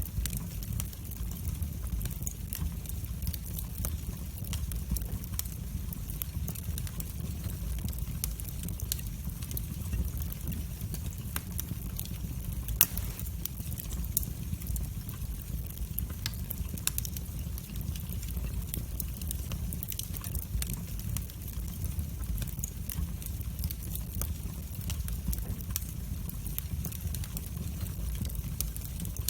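Wood fire burning in a fireplace, crackling with frequent small sharp pops over a low steady rumble of the flames, and one louder pop near the middle.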